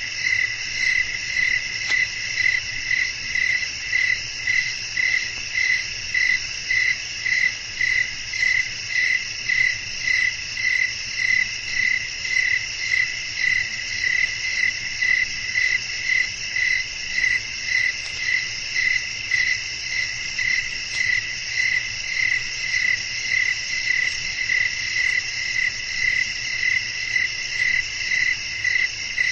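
Crickets chirping in a night chorus: a steady high trill overlaid by an even, pulsing chirp about one and a half times a second.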